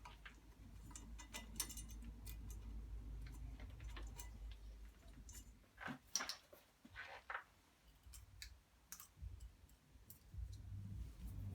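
Faint, irregular clicks and light metal knocks of hand tools and parts being handled during outboard motor assembly, with a low hum under the first half and a few brief scraping sounds about six to seven seconds in.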